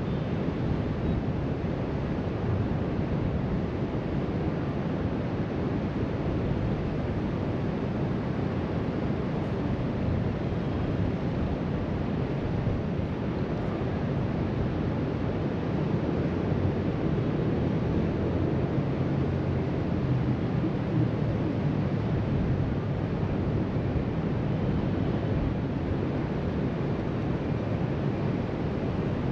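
Steady surf from waves breaking along a sandy beach below, mixed with wind rumbling on the microphone.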